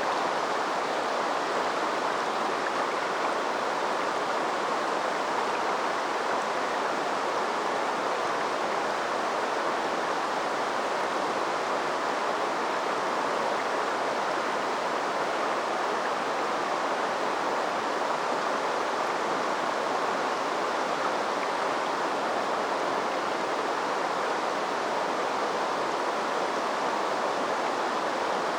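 Steady rush of river water flowing over rocks in a shallow stream, an even hiss with no breaks.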